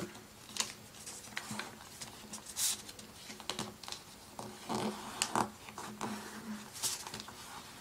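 A sheet of printer paper being folded and creased by hand: irregular crinkles and rustles as the folds are pushed in and pressed down.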